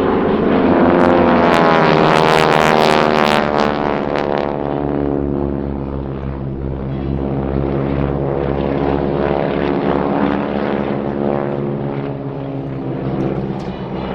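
North American SNJ Texan's radial engine and propeller in a low pass, loudest about two to three seconds in, its pitch falling as it goes by. A steady engine drone carries on after it and slowly fades.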